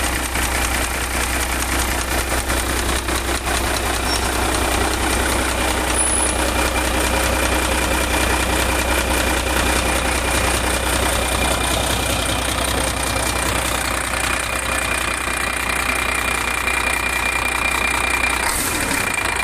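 Scania D12 12-litre inline-six diesel engine idling steadily, a dense rapid diesel clatter over a low rumble. The rumble shifts slightly near the end.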